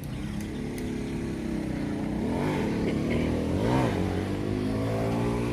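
Honda Dash 125 motorcycle's single-cylinder four-stroke engine running, with two quick throttle blips about two and a half and nearly four seconds in, the second one higher, then settling back to a steady idle.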